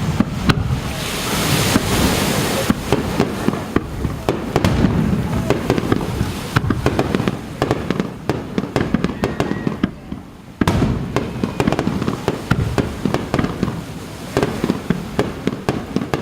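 Fireworks display over the sea: rapid sharp crackling pops over low booms from shells bursting. The barrage thins about ten seconds in, then picks up again suddenly.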